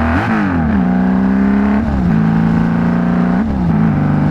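Honda Valkyrie flat-six engine on straight pipes, running steadily under way, with its pitch dipping briefly and recovering about three times as the throttle is eased and reopened.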